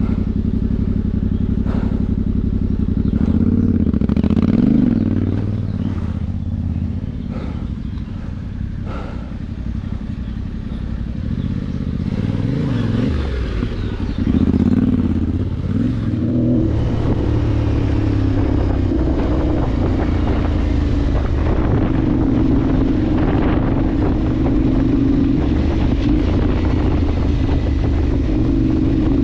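Adventure motorcycle engine working off road, revving up and down several times with scattered clattering knocks in the first half, then pulling steadily at higher revs from about halfway.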